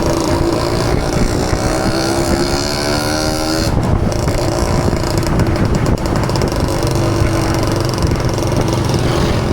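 Yamaha PG-1 motorcycle's small single-cylinder engine running under way, its pitch rising for about four seconds, then dropping suddenly and running on at a steadier pitch.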